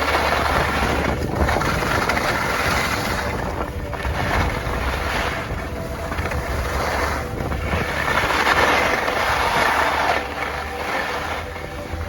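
Strong wind buffeting the microphone in gusts: a continuous rushing noise that swells and fades every second or two over a steady low rumble.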